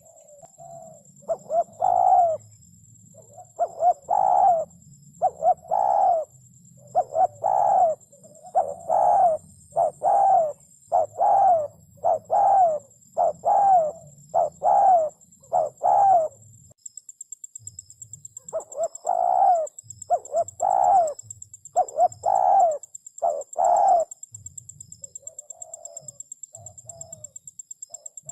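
Spotted dove cooing: a steady series of short, low coo notes, about one a second, broken by a pause of about two seconds partway through, then resuming and growing fainter near the end. A faint steady high-pitched whine runs underneath.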